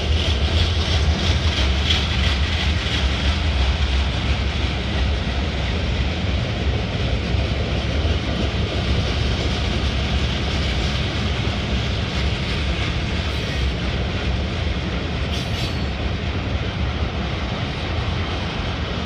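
Freight train cars rolling past: a steady rumble of steel wheels on rail with faint clicking over the rail joints, easing slightly. A brief high-pitched squeak comes about three-quarters of the way through.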